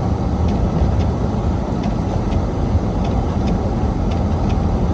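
Car driving: a steady low rumble of engine and road noise, with faint irregular ticks.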